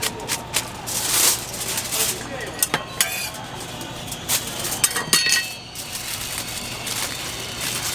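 Metal cooking utensils clinking and scraping at a toast griddle, with sharp taps throughout and a short ringing clink about five seconds in; a faint sizzle under it.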